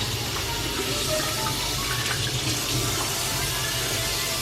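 Kitchen tap running in a steady stream into a sink or pan.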